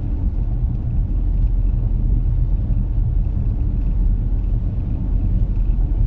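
Steady low rumble of a car driving on a snowy road, its engine and tyre noise running evenly.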